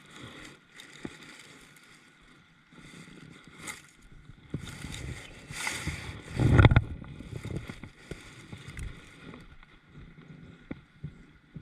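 Water swishing and sloshing around a kayak in repeated rushes, with small knocks and one loud low thump about six and a half seconds in.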